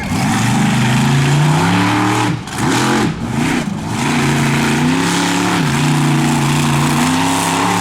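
Monster truck's big-block engine running loudly at high revs, with two short throttle lifts a couple of seconds in before it pulls back up and holds.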